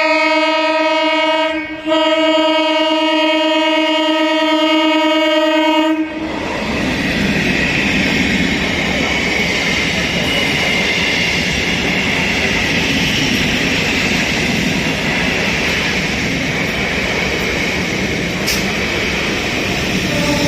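Indian Railways local train sounding its horn: a short blast, then a longer one of about four seconds. The train then runs past with a steady loud rumble of wheels on rails.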